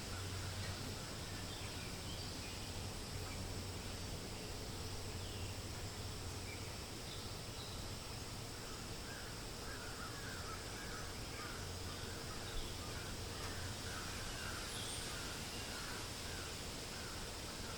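Steady forest ambience of wind hiss, with a bird calling a run of short repeated notes, about two a second, from about eight seconds in until near the end, and a few faint higher chirps.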